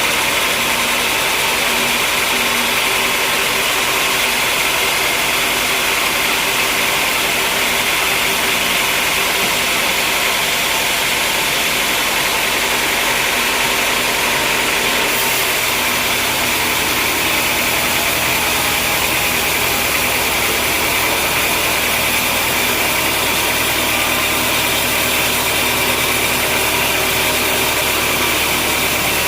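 Sawmill machinery running steadily: a loud, even mechanical noise with a strong high whine. About halfway through the sound shifts and a deeper hum comes in.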